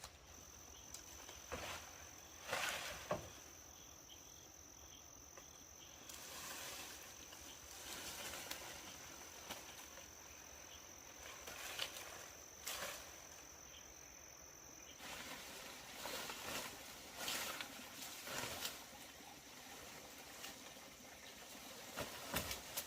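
Faint outdoor ambience. An insect keeps up a steady high-pitched trill that stops about 15 seconds in, while short rustles and knocks come and go.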